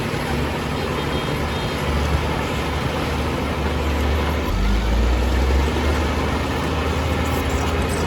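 Heavy construction machine's diesel engine running steadily with a low rumble that swells briefly about halfway through.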